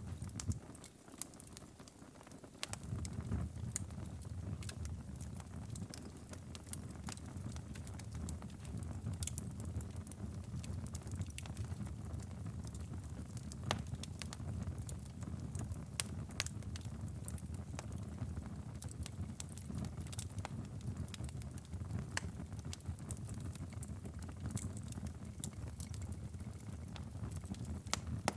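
Wood fire crackling in a stone fireplace: irregular sharp pops and snaps over a steady low rumble, which drops away briefly about a second in and returns.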